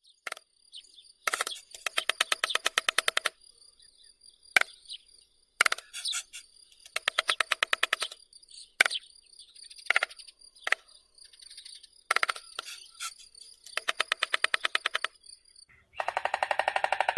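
White stork clattering its bill: several bouts of rapid clacks lasting one to two seconds each, with single clacks between them, over a faint steady high-pitched whine.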